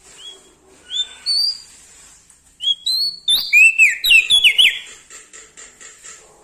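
A prenjak daun singing: short, sharp whistled chirps, a few scattered at first, then a fast, loud run of rising and falling notes about three to five seconds in that trails off into softer chips.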